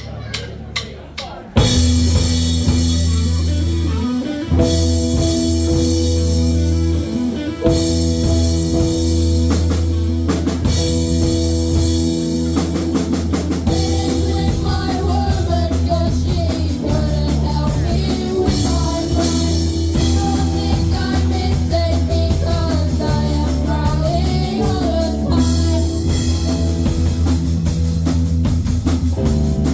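Live rock band starting a song: a few quick drum hits, then drums, electric guitar and bass come in together about a second and a half in and play on steadily. A singer comes in about halfway through.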